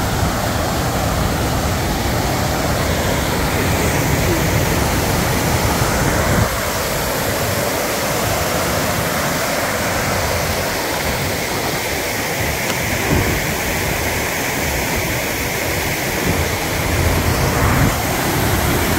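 Floodwater pouring over a lake dam spillway in high water: a loud, steady rush of falling water. The deep low rumble underneath drops away suddenly about a third of the way in.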